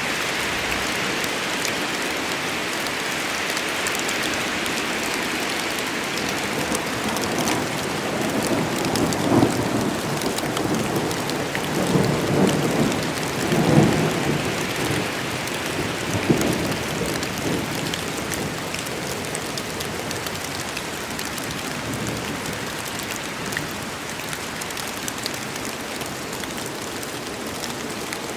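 Steady rain of a forest rainstorm, with thunder rumbling in several rolls around the middle before the rain carries on alone.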